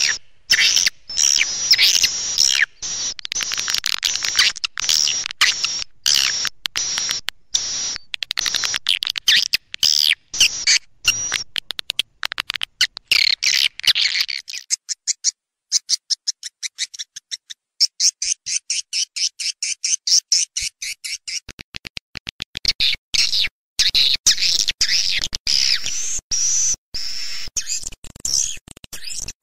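Swiftlet lure-call recording: dense, high twittering chirps of swiftlets. About halfway the chirping gives way for several seconds to a fast run of dry clicks, then the twittering comes back.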